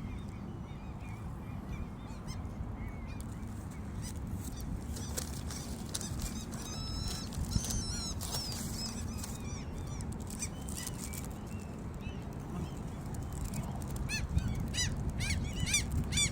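Gulls calling: scattered short, high, arching calls that come more often toward the end, over a steady low rumble.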